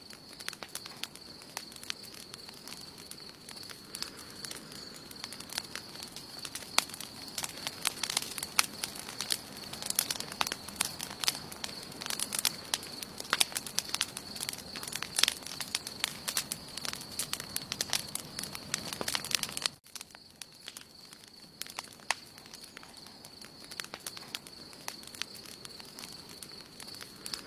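Campfire crackling, the burning wood giving off many irregular sharp pops and snaps, busiest in the middle, over a soft hiss. A faint steady high tone runs underneath.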